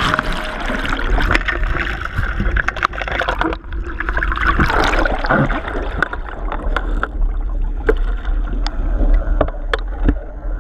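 Water splashing and gurgling against the hull of an RS Feva XL sailing dinghy under way, with wind buffeting the microphone in a steady low rumble and scattered short knocks and splashes.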